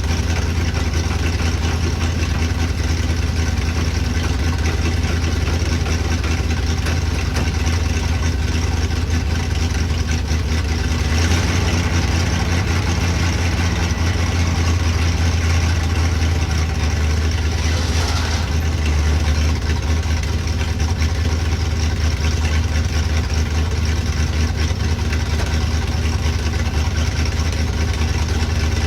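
Chevrolet C60 dump truck engine running steadily at idle, getting a little louder and fuller about 11 seconds in, with a brief hiss about 18 seconds in.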